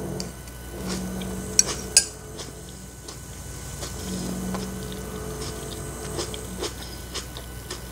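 Close-miked chewing of a tomato slice with lips closed: soft wet mouth clicks throughout, with a couple of low steady hums. Two sharp clinks about one and a half and two seconds in, as a metal fork is set down on the ceramic plate.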